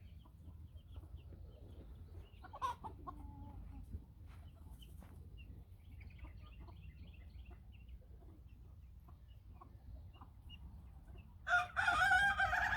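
Ayam Ketawa (laughing chicken) rooster crowing once near the end, a short version of the breed's long laughing crow. Before it, chickens cluck softly now and then, with one louder call a few seconds in.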